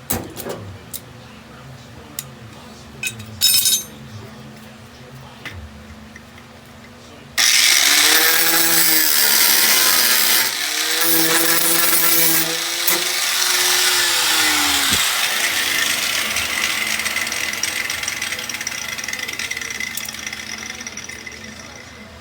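A few light clicks and clinks of metal tools, then a handheld power tool starts suddenly about seven seconds in and runs hard on steel body panel work, its motor pitch rising and dipping under load, before the noise fades away over the last several seconds.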